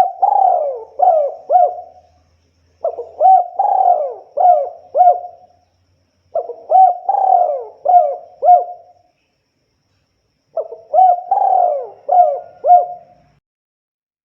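Spotted dove (tekukur) cooing: a phrase of several quick, rising-and-falling coos, repeated four times with short pauses between.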